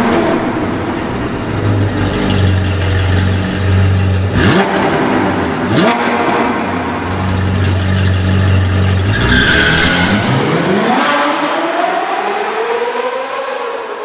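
Sports car engine sound effect: a steady low idle broken by two quick rev blips about 4.5 and 6 seconds in, then the engine revs up, rising steadily in pitch from about 9 seconds in and fading near the end.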